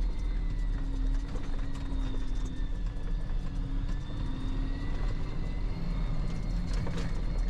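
Fire engine driving, heard from inside the cab: steady engine and road rumble.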